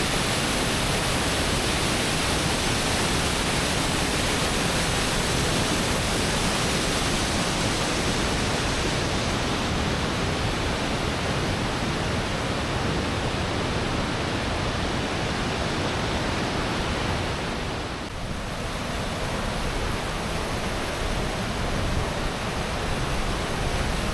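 A tall waterfall's water falling and splashing: a steady, unbroken rushing noise that dips slightly for a moment about three quarters of the way through.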